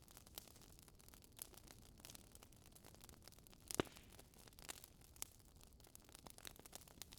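Faint crackling of a fireplace fire: scattered soft pops and clicks over a low hiss, with one louder pop about four seconds in.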